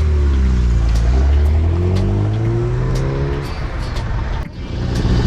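A classic rally car's engine accelerating away from a standing start, its pitch climbing steadily, then fading as the car draws off.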